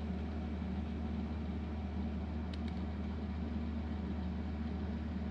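A steady, unchanging low machine hum, like an engine or motor running at idle, with a couple of faint ticks about halfway through.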